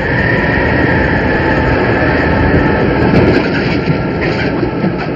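Storm wind sound effect: loud rushing wind with a high whistling howl, the storm building into a tornado.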